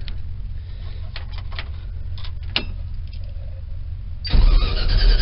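A low background rumble with a few light clicks, then about four seconds in the starter motor of a 1972 Chevy pickup's 350 V8 kicks in loudly, cranking the engine on a cold start without a choke. The starter is noisy, which the owner puts down to its needing a shim.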